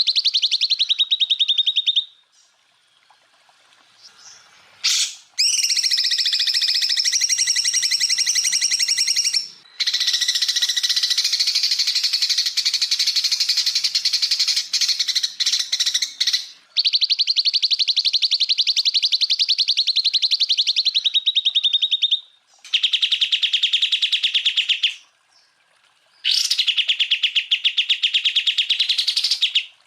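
Greater green leafbird (cucak ijo) singing in long, rapid-fire trilled bursts, the 'tembakan' phrases. About six bursts of a few seconds each are separated by short pauses.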